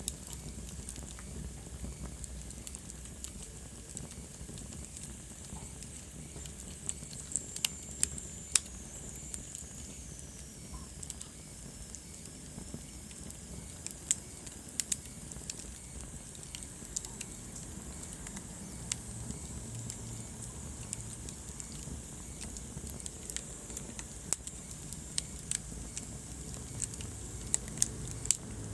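Wood fire burning in a fireplace: a low steady rumble of flames with irregular sharp crackles and pops, a cluster of loud pops about a quarter of the way in. A thin high whistle glides downward for a few seconds about a third of the way in.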